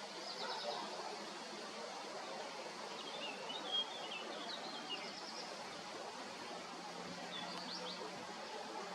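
Small birds chirping over a steady outdoor hiss: a short trill near the start, a longer run of chirps around the middle, and another short call near the end.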